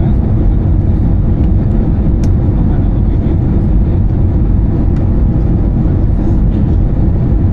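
Airbus A320-214 cabin noise in flight: a steady, loud rumble of the CFM56 engines and airflow, with no change in pitch or level.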